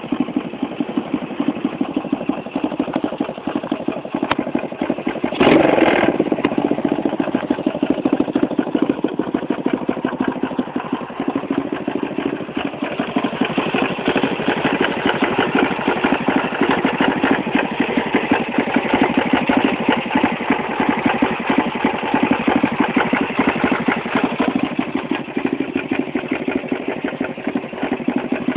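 X18 pocket bike's 110cc engine running through a drag pipe exhaust, mostly at a steady fast idle. About five seconds in there is a single sharp throttle blip.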